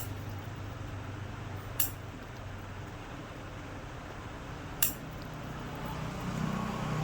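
Two short, sharp clicks about three seconds apart over a low, steady hum.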